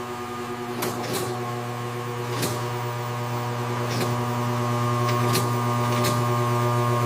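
Steady mechanical hum of factory machinery running, with a few sharp clicks and clacks over it, cutting off abruptly at the end.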